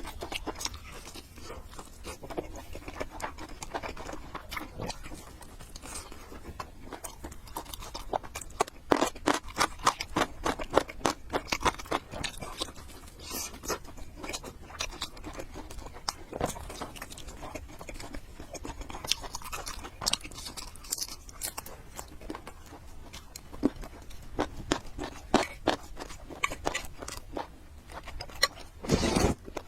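Close-miked eating of noodles: wet chewing, smacking and slurping, with many short clicks of mouth sounds throughout and a louder burst near the end.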